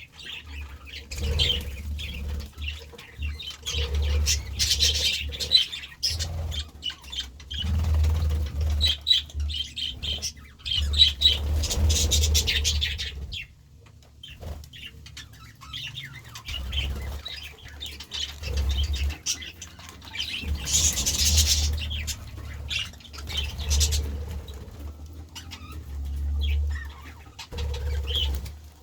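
A flock of budgerigars chattering and chirping in quick, uneven bursts, with repeated low fluttering thuds of wings flapping.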